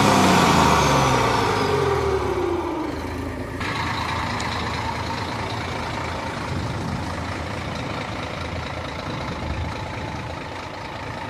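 Scania 420 truck with a whistle comb fitted in its turbocharger intake, its engine note and a faint high turbo whistle falling in pitch over the first three seconds as it pulls away. About three and a half seconds in, the high whistle drops out and a quieter steady rumble with noise remains.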